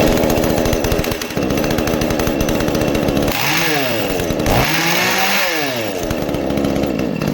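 Two-stroke chainsaw engine running after a new piston set has been fitted. It is revved up twice in the middle, the pitch rising and falling each time, then drops back to a steadier run.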